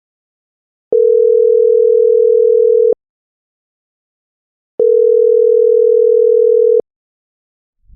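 Two long electronic beeps, each a single steady mid-pitched tone lasting about two seconds, with a click as each starts and stops; the first begins about a second in and the second near the five-second mark.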